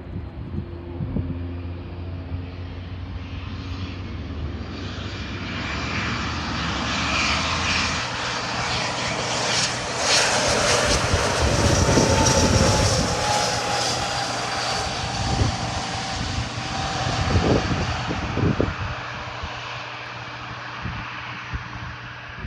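Dassault Falcon 7X business jet, its three Pratt & Whitney PW307A turbofans, on landing approach: the jet noise grows, is loudest about halfway through as the aircraft passes, with a high whine that falls in pitch as it goes by, then fades away.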